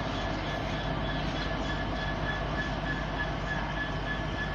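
Diesel train running steadily: a low engine drone with a steady high whine over it.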